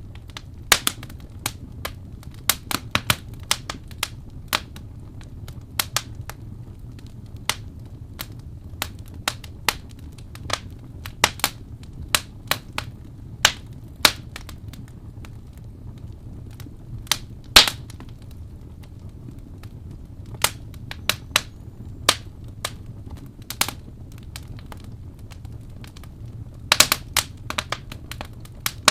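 Wood fire in a fireplace crackling: irregular sharp pops and snaps over a low steady rumble, with a quick run of pops near the end.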